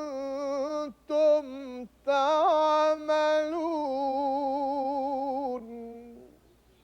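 A single voice chanting Quranic verse in Arabic, in long melismatic held notes whose pitch wavers and bends, broken into several phrases. The chant fades out about six seconds in.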